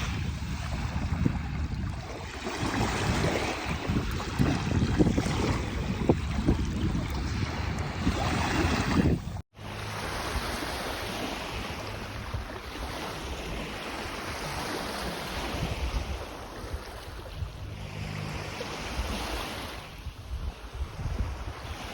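Lake Superior waves washing onto the shore, with gusty wind on the microphone. About nine and a half seconds in the sound cuts out for an instant, and the surf carries on smoother and softer, rising and falling.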